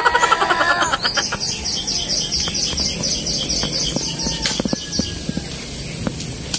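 A rooster's crow trailing off at the start, then a small bird calling a rapid series of high chirps, about four a second, for several seconds. A few faint knocks come near the end.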